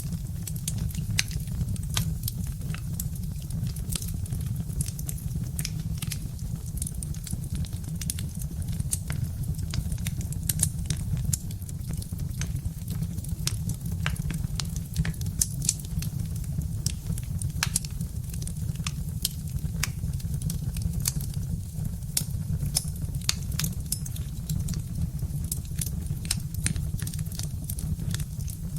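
Birch-wood fire crackling: frequent irregular sharp pops and snaps over a steady low rumble of the burning fire.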